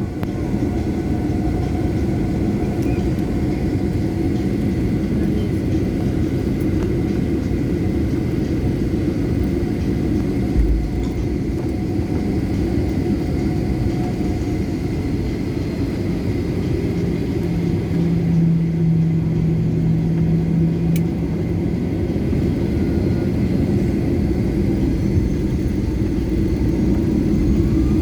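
Boeing 737 jet engines and airframe giving a steady low rumble, with a faint whine rising in pitch in the last few seconds as the engines spool up.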